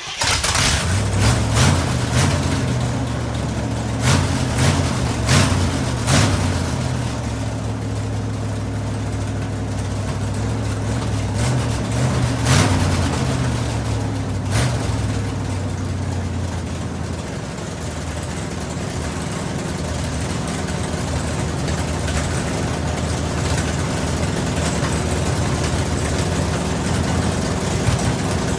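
Chevrolet 454 big-block V8 catching and running just after start-up, revving unevenly for the first several seconds and again briefly about twelve seconds in, then settling into a steady idle.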